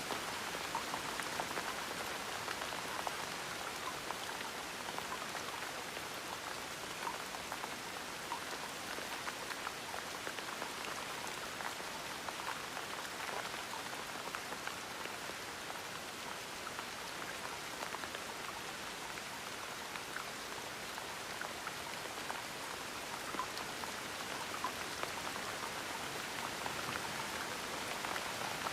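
Gentle rain falling steadily, a constant patter of fine drops.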